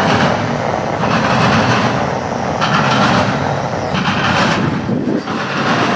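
Freight train rolling past: steady noise of wheels and cars running over the rails.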